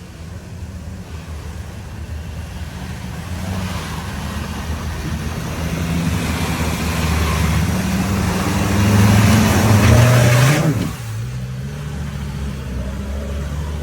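Off-road 4x4's engine revving hard under load, getting louder and higher over about ten seconds with a rising hiss, then the revs drop suddenly and it runs on lower and steadier.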